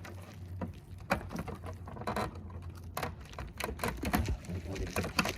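Irregular light clicks and knocks of plastic car bumper parts and clips being handled and fitted, over a low steady hum.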